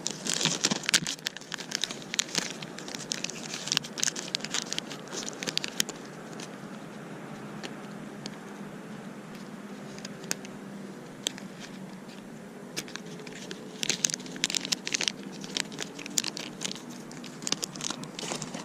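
Plastic tackle crinkling and clicking as small lead jig heads and a micro hook are handled and picked out of their packet or box. The handling comes in two spells, with a quieter stretch in the middle.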